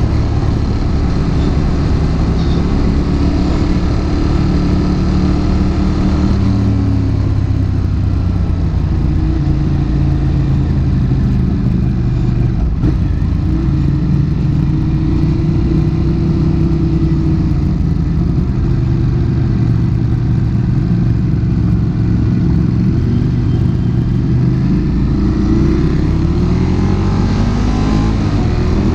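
Ducati motorcycle's twin-cylinder engine running under way, its pitch shifting with the throttle and rising as it revs up near the end, over a steady low rumble of wind on a helmet-mounted camera.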